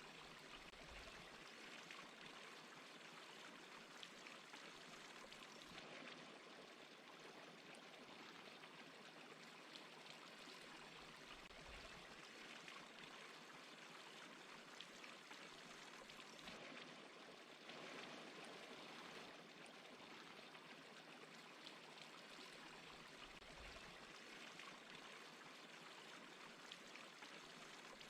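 Faint, steady rush of falling water from a small waterfall.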